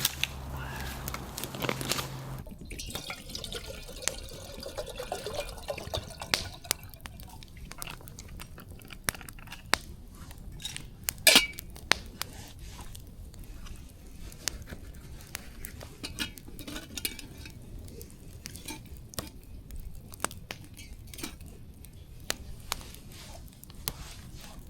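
Burning dry wood crackling, with irregular sharp pops and one louder pop about 11 seconds in.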